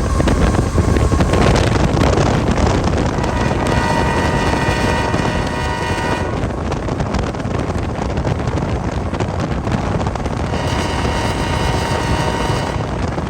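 Diesel locomotive horn sounding two long blasts, the first about three seconds in and the second near ten seconds, over loud wind noise on the microphone and a steady low rumble.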